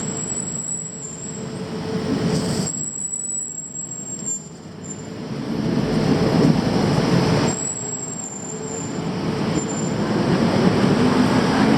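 Street traffic noise that swells and fades several times as vehicles pass. Near the end a motor's whine rises in pitch.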